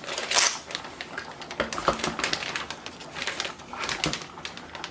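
Plastic freezer bags crinkling and rustling as raw chicken breasts are put into them, with irregular crackles and small knocks.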